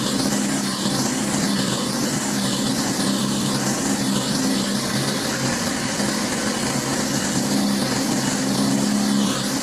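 Pressure washer running steadily, its motor humming under the hiss of high-pressure water spraying a hard surface. The spray hiss swells and fades about once a second as the stream sweeps back and forth.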